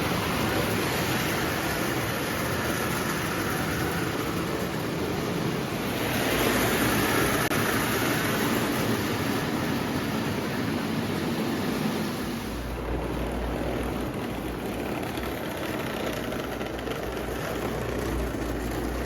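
Vintage Marx O gauge toy electric train running on its track, a steady mechanical running noise. It swells about six seconds in, and about twelve seconds in the sound changes and a low hum comes in.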